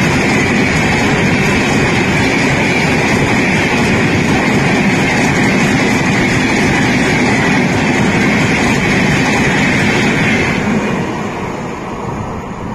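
Express train's passenger coaches passing at speed close by: a loud, steady rush of wheel-on-rail noise that fades about ten and a half seconds in as the last coach clears.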